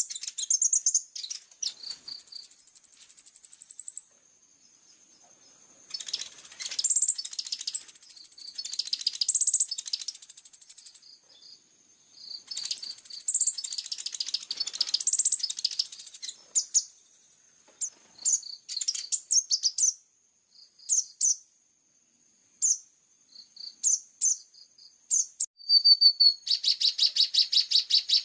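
Kolibri ninja sunbird singing: phrases of sharp, high chirps and trills broken by short pauses. Near the end it breaks into a fast, even rattle of repeated notes, the rapid-fire 'tembakan' song.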